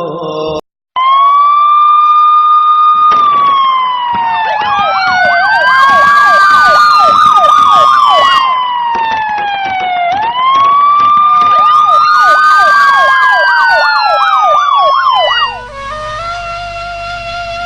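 Overlapping emergency sirens: a slow wail that rises, holds and falls twice, with fast yelping sweeps over it. The sirens cut in loudly after a brief silence and give way to music near the end.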